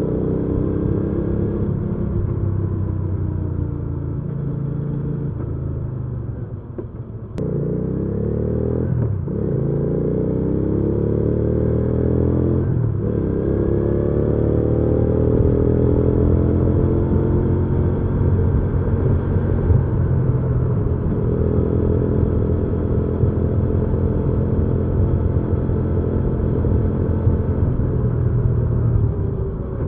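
Hyosung GV300S Aquila's 300 cc V-twin engine under way and accelerating through the gears. Its pitch climbs, drops briefly and climbs again at about 7, 9 and 13 seconds in, which fits upshifts. From about 15 seconds it holds a steady cruising note, and it falls away just before the end as the throttle closes.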